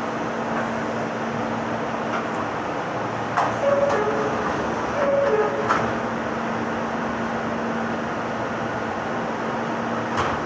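Meitetsu 6000 series resistance-control electric train running, a steady rumble with a constant low hum. Two short two-note tones, falling from the higher note to the lower, come about a second and a half apart near the middle, with a few sharp clicks.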